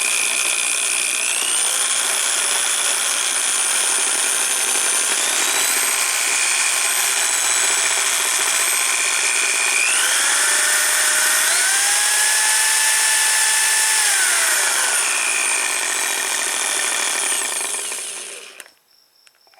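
Electric drill spinning the gear drive of a repaired mechanical motorcycle tachometer to test it: a steady motor whine that steps up in speed three times, eases back down, then winds down and stops near the end.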